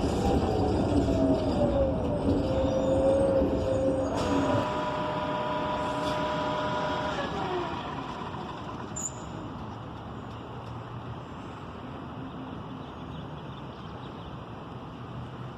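Inside a 2015 Gillig BRT Plus bus with a Cummins Westport ISL G natural-gas engine and Allison transmission as it slows down. A falling whine runs for about four seconds, then comes a sudden click and a steady high squeal for about three seconds. After that the bus settles to a quieter, steady rumble.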